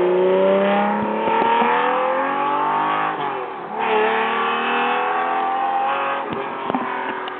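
Lamborghini Diablo V12 accelerating hard, its exhaust note climbing in pitch, dropping at an upshift about three seconds in, then climbing again before fading away.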